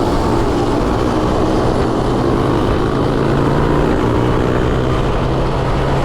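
Honda Monkey 125's single-cylinder engine running steadily under way, with wind and road noise over it.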